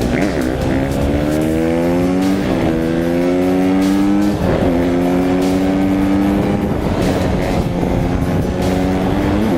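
Off-road vehicle engine pulling hard and shifting up through the gears: the pitch climbs, drops sharply at each shift about two and a half and four and a half seconds in, then climbs slowly in the next gear.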